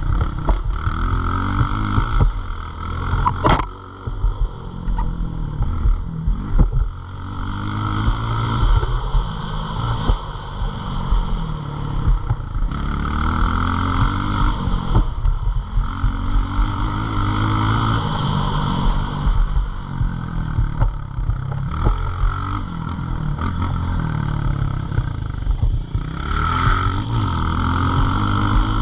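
Pit bike engine revving up and dropping back over and over, about every two to three seconds, as it is ridden hard through gears and corners. A sharp click sounds about three and a half seconds in.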